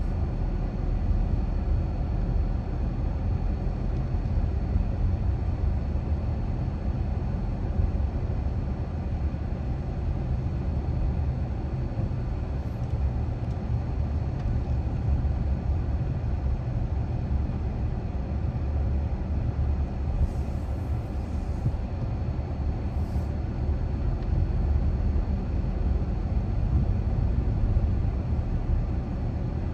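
Steady low rumble of a car driving, its tyre and engine noise. There are a few faint high ticks about two-thirds of the way through.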